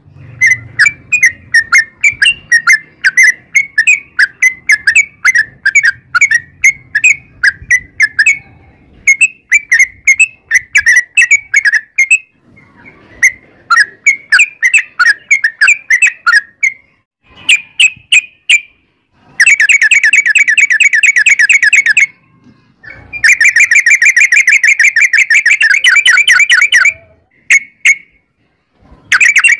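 Yellow-vented bulbul (trucukan) singing: a fast series of short, chirping notes, then from about two-thirds of the way in long, unbroken rapid trills ("ropel panjang") lasting a few seconds each, with brief pauses between them.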